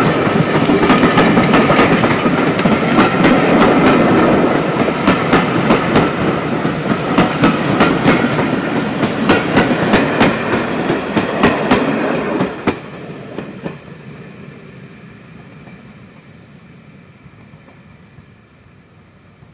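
Railway coaches of a steam-hauled passenger train rolling past, their wheels clicking over the rail joints. About twelve seconds in, the last coach goes by: the sound drops sharply and then fades as the train moves away.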